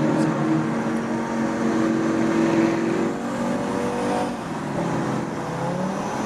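Car engine running hard at a steady high pitch, easing off about three seconds in, then its pitch rises again near the end.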